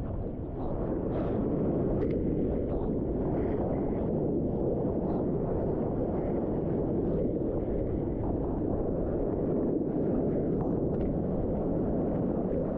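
Steady low rumble of wind buffeting the microphone, with a wash of moving water beneath it.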